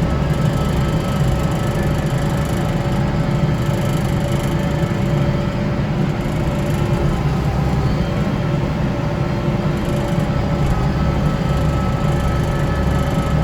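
Kubota tractor's diesel engine and front-mounted snow blower running steadily under load, a continuous low drone with a couple of steady held tones above it.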